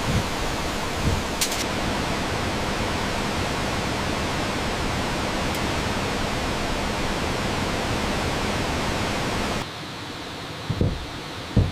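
Steady rushing of a waterfall that cuts off suddenly near the end, followed by two dull knocks of wood being struck.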